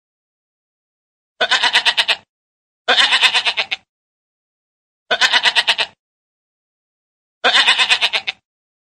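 A farm animal bleating four times, each bleat about a second long with a fast quavering waver, separated by pauses of a second or two.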